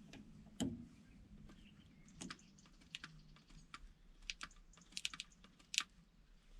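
Hand grease gun being worked on a bulldozer's grease nipples: a series of irregular sharp clicks and ticks of the gun and its coupler, some loud, most soft.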